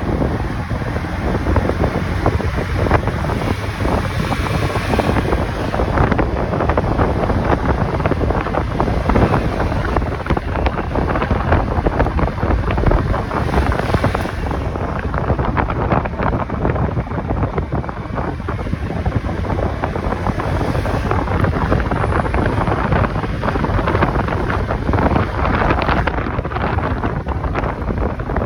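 Steady wind rushing over the microphone of a moving motorcycle, mixed with engine and road noise, with no clear breaks or events.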